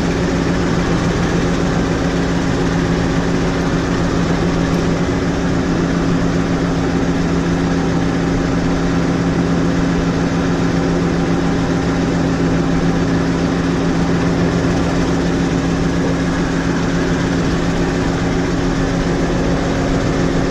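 New Holland 6080 tractor engine idling steadily, with an even, unchanging hum.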